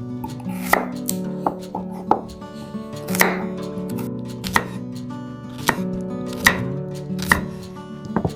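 A knife chopping on a cutting board in irregular sharp strokes, about one or two a second, over background music with plucked strings.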